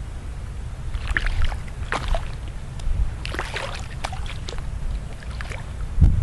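Kayak paddle strokes: the blades dip and splash, several times, with water dripping off them, over a low rumble of wind on the microphone.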